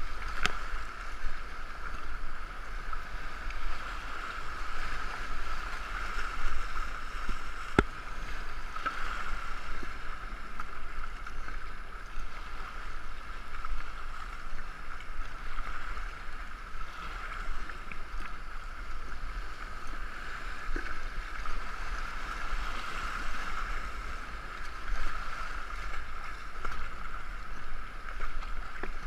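Two-person racing canoe being paddled on a river: a steady rush of water with uneven paddle splashes, and one sharp knock about eight seconds in.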